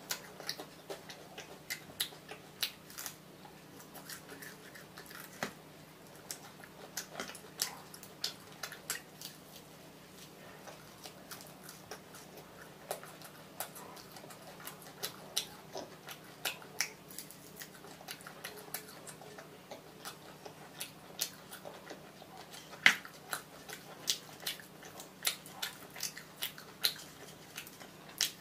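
Close-up mouth sounds of a person biting and chewing fried fish, many short sharp clicks at an irregular pace, one louder click about two-thirds of the way through.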